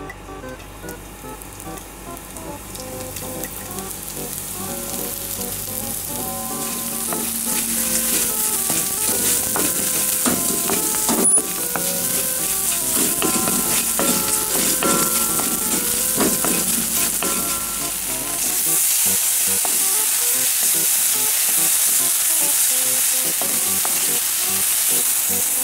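Small pieces of food sizzling in hot oil in a frying pan while being stir-fried with a spatula. The sizzle grows louder over the first several seconds and gets stronger again about two-thirds of the way through, with one sharp click near the middle.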